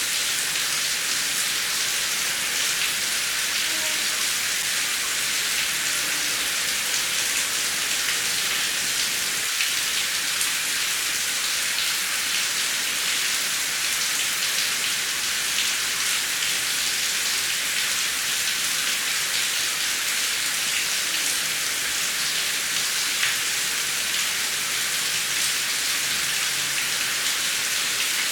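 Heavy rain falling steadily: a dense, even hiss with many small drop ticks in it.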